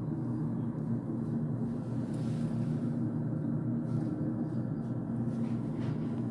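Steady low hum and rumble with a faint steady tone, from a gas water heater running.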